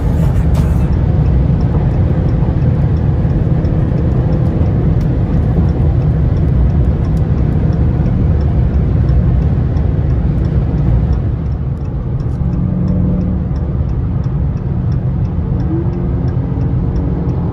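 Car engine running steadily, heavy in the low end, with a brief rise in pitch near the end.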